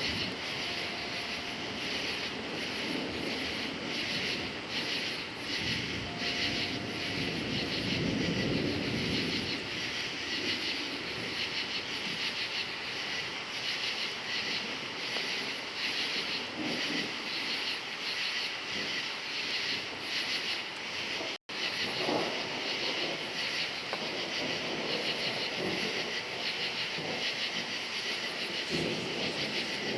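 Crickets chirping in a steady pulsing chorus, over low rolling rumbles of distant thunder, the strongest swelling about eight seconds in. The sound cuts out for an instant a little past twenty seconds.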